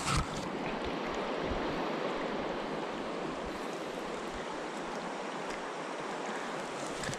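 Steady rushing of water, with a short sharp knock just after the start.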